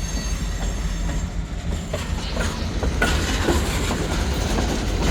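Freight train rolling past: a steady low rumble of the cars, with wheels clacking over rail joints in repeated sharp clicks from about two seconds in.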